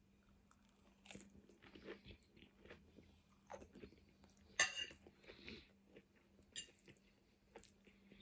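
Close-up chewing and crunching of crisp food, a person eating with short crackly bites scattered through, the sharpest crunch about halfway in.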